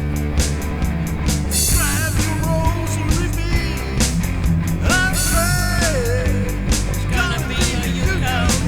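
Heavy rock music with drums, electric guitar and a singing voice that comes in about two seconds in.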